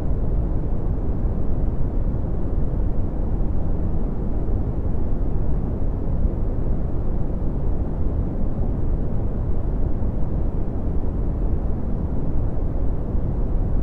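Red (Brownian) noise: a steady, deep rumbling hiss with most of its power in the low end, falling away toward the highs, unchanging throughout.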